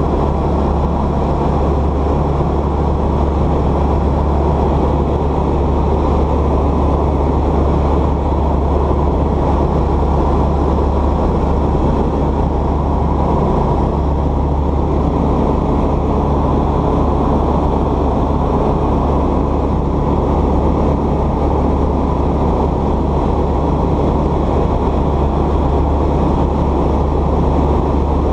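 Light airplane's piston engine and propeller running steadily, a constant low drone with no change in pitch or level.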